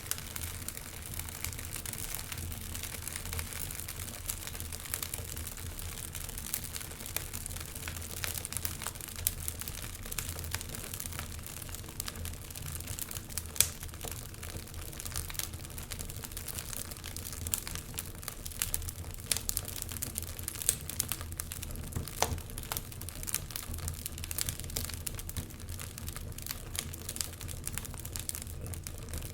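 Wood logs burning in a fireplace, crackling steadily with scattered sharp pops over a low steady rumble; one louder snap comes about halfway through.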